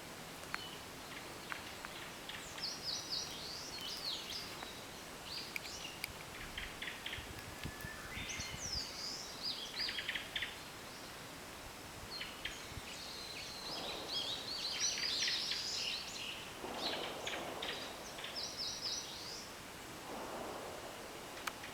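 Several wild songbirds singing in spring, their short, high phrases of rapid notes overlapping, busiest about two-thirds through.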